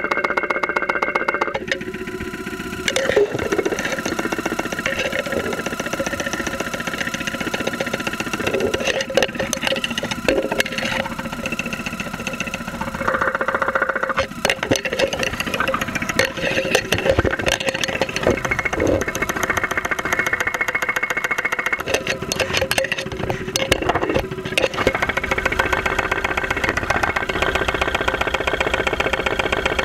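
2001 Saturn SL2's 1.9-litre four-cylinder engine running at idle, picked up through a stethoscope microphone, with a rapid knocking throughout and its tone changing a few times. It is the loud engine noise that set in after the engine was run very low on oil.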